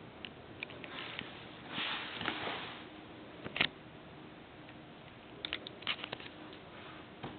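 Young kittens moving about on a hallway floor: a breathy sniff-like rush about two seconds in, then a few sharp light clicks and taps of paws and claws.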